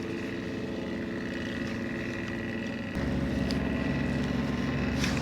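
Boat motor running steadily with a high whine over it; about three seconds in it gets suddenly louder and heavier.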